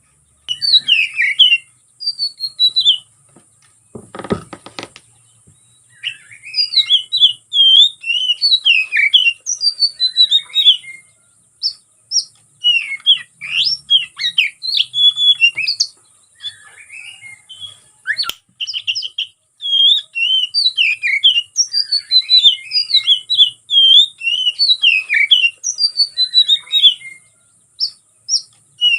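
Oriental magpie-robin (kacer) singing loudly in rapid, varied phrases of whistles, chirps and mimicked notes, in bursts with short pauses. This is the agitated, fight-ready 'konslet' song that is played to provoke rival birds. A brief low rattle comes about four seconds in.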